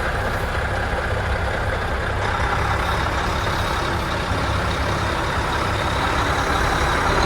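Semi truck's diesel engine running steadily, with a constant low hum and no sudden sounds.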